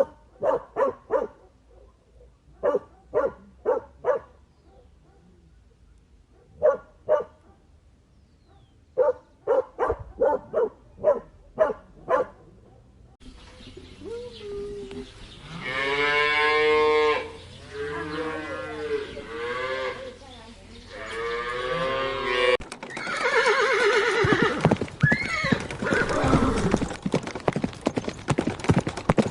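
Farm animals calling in a run of separate clips. First come groups of short, sharp calls, then from about thirteen seconds in long wavering calls, and after a sudden cut near twenty-three seconds a harsher, rougher calling.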